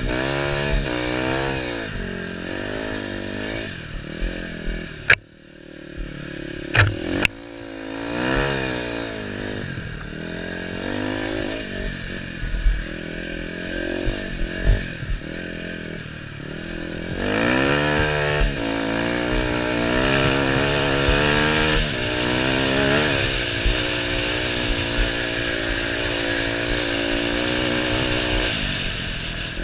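KTM 250 EXC two-stroke enduro engine under race throttle in sand, its revs sweeping up and down through the gears, heard from the rider's helmet camera. About five seconds in the throttle shuts and the engine note nearly drops away, with a few sharp knocks, before it revs back up; from about seventeen seconds in it holds higher revs.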